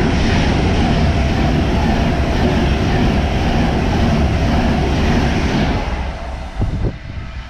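A Pendolino electric express train passing through the station at speed without stopping. Its loud, steady rush and low rumble die away about six seconds in.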